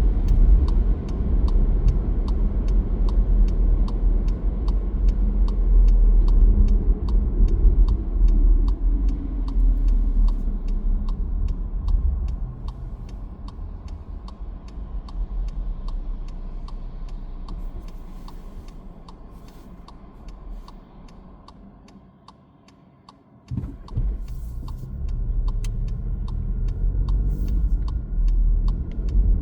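A car driving: its low road rumble fades as it slows almost to a stop, then a thump and the rumble building again as it pulls away. A steady ticking about twice a second runs through it.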